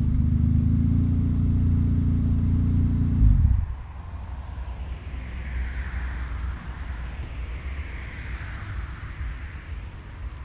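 Ford Probe's 2.5 V6 (24-valve) idling steadily through a Magnaflow exhaust, then switched off about three and a half seconds in, leaving only a low background rumble.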